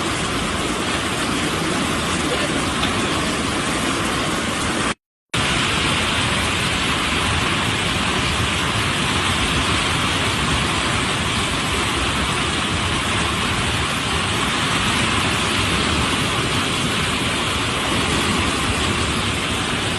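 Steady rushing noise of water, from floodwater pouring over a road and heavy rain. It cuts out for an instant about five seconds in.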